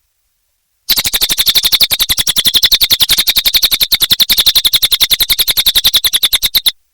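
Cililin bird calling a fast, even trill of sharp high notes, about a dozen a second. It starts about a second in and stops abruptly just before the end.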